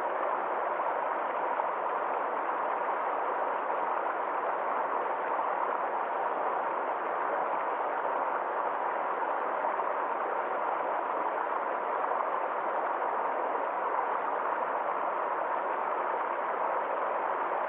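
Water flowing in a small forest stream: a steady, even rush with no separate splashes or changes.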